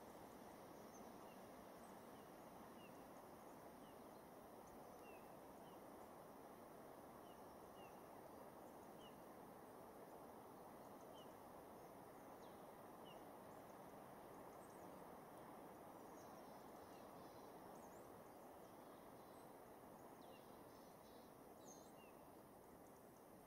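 Near silence: a faint steady hiss, with faint, short, high bird calls repeating about once a second through the first half and a few higher calls later on.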